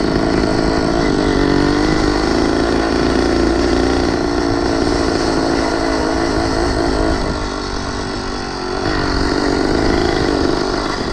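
Small engine of a motorised 20-inch bicycle running under way, its pitch wavering with the throttle. It eases off about seven and a half seconds in, then picks up again about a second later.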